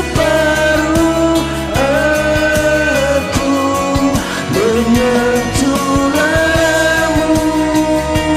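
A voice singing long held notes over a karaoke backing track of a pop ballad, with drums and instruments.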